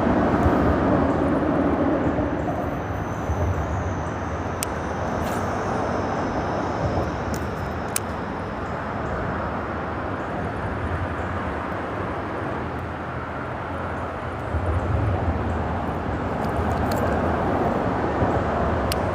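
Steady rumble of freeway traffic on a bridge overhead, swelling louder at the start and again near the end as heavier vehicles pass. A few faint sharp clicks sound over it.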